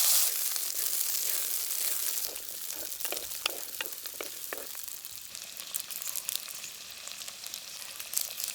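Small onions (shallots) sizzling in a little hot oil in a pan. The sizzle is loudest at the start and settles to a softer steady hiss, with a run of short clicks and taps in the middle as they are stirred.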